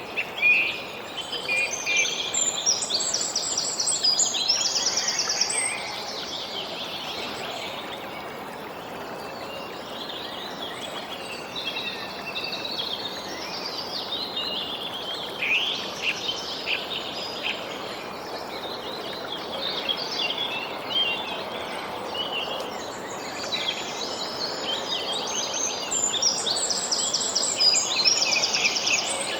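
Songbirds chirping and trilling over a steady background hiss, with the birdsong busiest in the first few seconds and again near the end.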